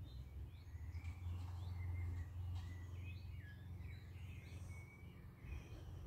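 Birds singing in the background, a busy string of short chirps and warbled notes, over a low steady rumble.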